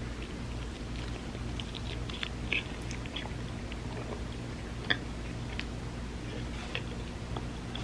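Close-miked chewing of a vegan spam musubi, soft rice and nori being worked in the mouth with small wet clicks, and a sharper click about five seconds in. A steady low hum runs underneath.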